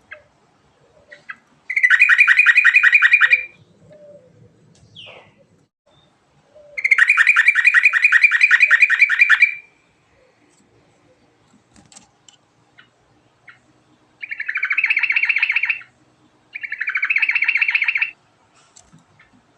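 Yellow-vented bulbul (trucuk) singing in four loud bouts of fast repeated notes. The second bout is the longest, about three seconds, and the bouts are separated by short pauses.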